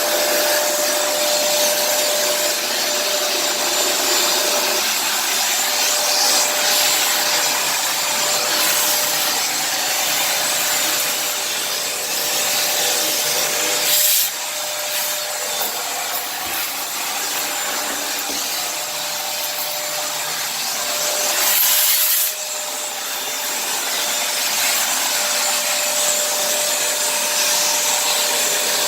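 Kenmore vacuum cleaner running steadily with a constant whine, the rush of air changing as it is worked over the floor. Twice, about halfway and again near three quarters of the way through, the airflow swells louder for a moment and then settles slightly quieter.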